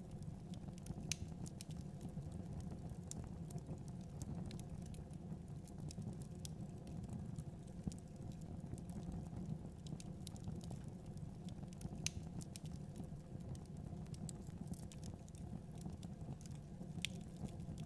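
Fireplace fire crackling: scattered sharp snaps and pops over a steady low rumble of the burning fire.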